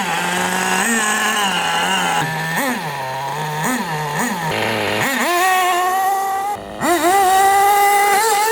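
Small nitro engine of an HPI WR8 rally RC car, with the throttle blipped up and down several times. About five seconds in it revs up to a high, held pitch, drops out for a moment, then picks up again.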